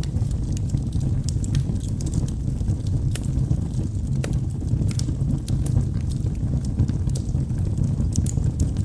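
Wood logs burning in a fireplace: a steady low rumble of flame with frequent sharp crackles and pops at irregular moments.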